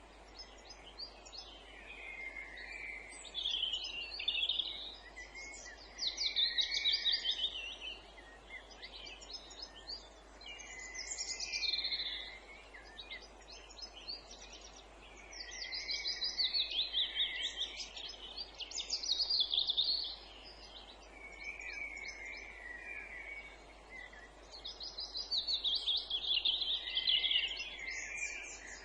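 Songbirds singing: song phrases of rapid trilled notes come every few seconds with short pauses between them, over softer warbling and a steady faint background hiss.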